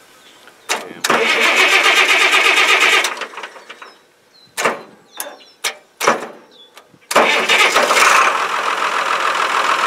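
International tractor engine being cranked by the starter for about two seconds without catching, a few sharp clunks, then starting about seven seconds in and running steadily.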